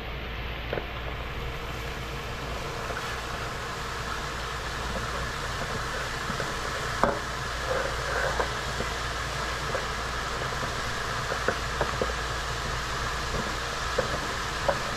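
Shrimp frying in a large aluminium pot with a steady sizzle while chopped vegetables are scraped in off a metal bowl with a wooden spoon, giving scattered knocks and scrapes of the spoon against the metal, the sharpest about seven seconds in.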